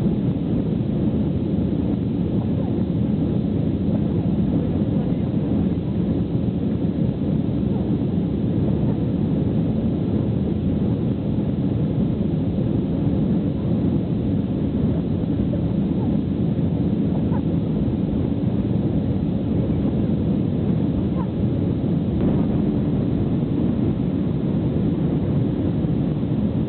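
Airbus A319 cabin noise during takeoff: a steady, loud low rumble of the jet engines and rushing air, heard from a rear window seat.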